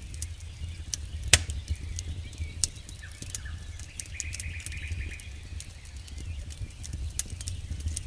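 Campfire crackling, with irregular sharp pops over a steady low rumble, one pop much louder than the rest about a second in. A faint high chirping call joins for about two seconds in the middle.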